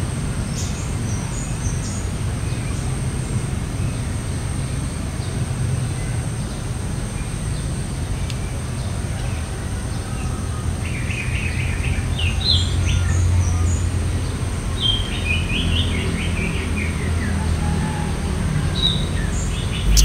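Common iora (Aegithina tiphia) singing a run of short, quick whistled and chirping notes, mostly from about eleven seconds in, over a steady low rumble.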